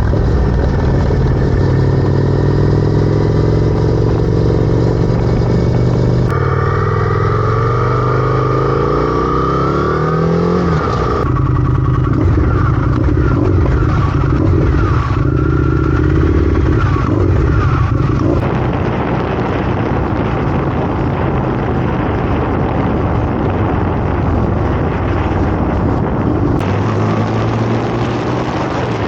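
Motorcycle engine running, its pitch rising as it accelerates, heard in several segments that change abruptly.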